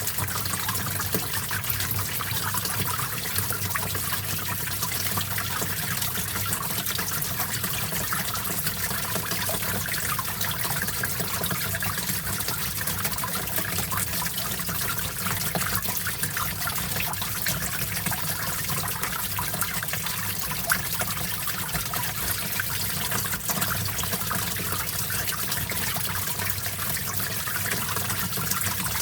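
Small stream flowing and trickling, with a steady splashing babble.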